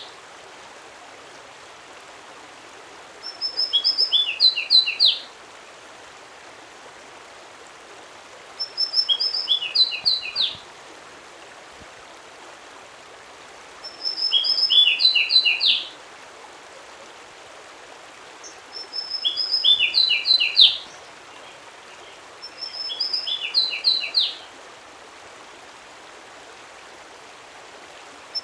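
A songbird repeats the same short song phrase about every five seconds, five times in all. Each phrase is a quick run of high, clear notes that steps downward in pitch over about two seconds. A steady hiss of background noise runs between the phrases.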